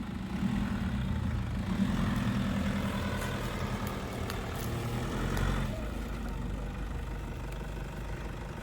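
Off-road vehicle's engine running steadily, becoming quieter about six seconds in.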